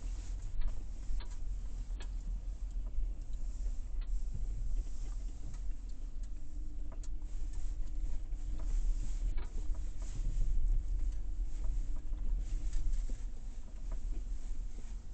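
Road noise inside a moving car's cabin: a steady low rumble, with scattered faint ticks and clicks.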